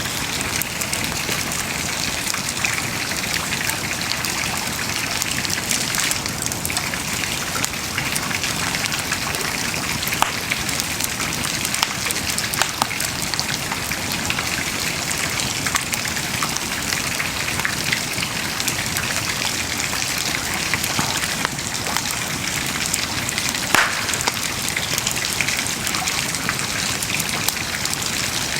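Wood bonfire burning: a steady hiss of flames with scattered crackles and small pops, and one louder pop about three-quarters of the way through.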